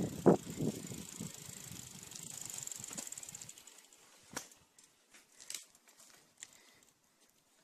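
Bicycle on the move: a few knocks and bumps in the first second or so, then the rear freewheel ticking rapidly as the bike coasts, followed by a few scattered clicks.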